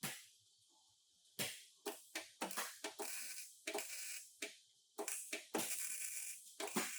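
Irregular sharp knocks and clatters, about a dozen, with two short stretches of scraping, like tools worked on car body metal.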